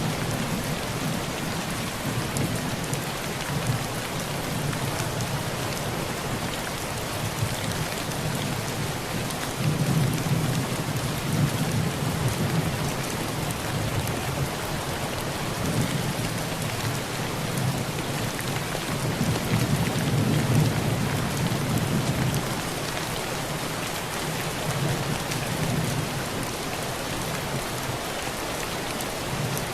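Heavy rain falling steadily on a tin roof, an even hiss, with low rolling thunder that swells and fades several times, most strongly about ten and twenty seconds in.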